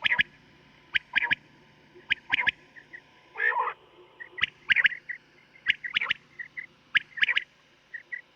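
Quail calling from a recorded hunting-call cassette: sharp calls, mostly in pairs, repeating about once a second, with faint short chirps between them. A steady low hum runs underneath.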